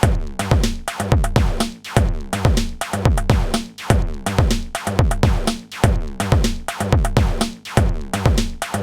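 Modor DR-2 digital drum synthesizer playing a looping electronic beat. Deep kick drums slide down in pitch on each hit, under snappy higher hits and bright hi-hat ticks, with the strongest accents about once a second.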